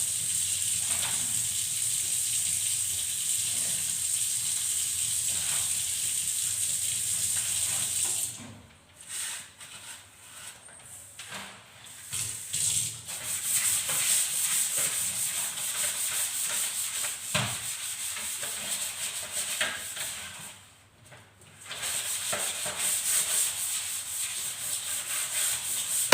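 Scrubbing and rubbing while a refrigerator is cleaned. The hiss is steady for about the first eight seconds, then breaks into shorter strokes with brief pauses.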